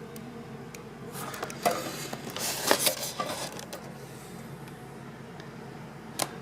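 Handling noise from the fan's motor and wiring being moved about: a few seconds of rustling and small clicks about a second in, then quieter with scattered clicks over a steady background hum.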